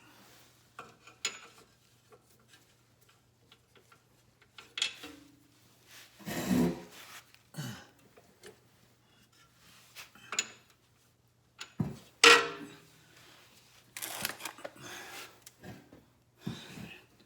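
Hand tools and metal suspension parts clinking, scraping and knocking at irregular intervals during reassembly of a car's front strut and axle. The loudest knocks come about six and twelve seconds in, over a faint steady hum.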